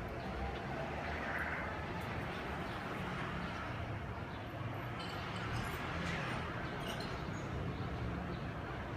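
Steady outdoor background noise with a low hum of distant traffic, and a few faint, short, high clicks or chirps a little past the middle.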